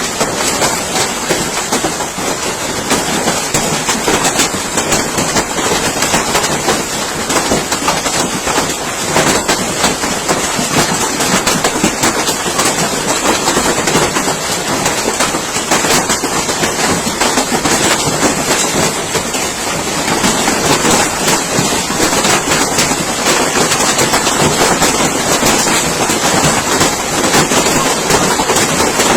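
Heavy hailstorm with rain: hailstones pelting down in a loud, unbroken clatter of countless small hits.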